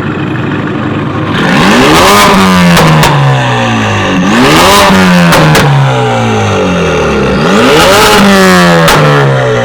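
A car engine revved hard three times, each rev climbing quickly and then falling back, with a few sharp cracks near the top of the revs.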